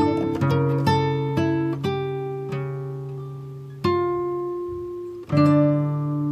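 Background music: acoustic guitar, plucked notes and chords ringing out and fading, with new chords struck about four seconds in and again just over five seconds in.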